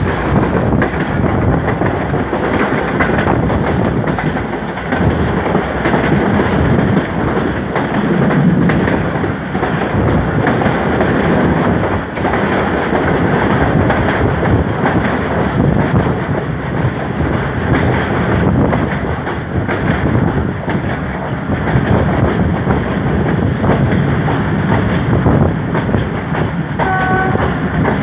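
Steady running noise of a moving passenger train coach, heard from its open doorway. A short, high tone sounds briefly near the end.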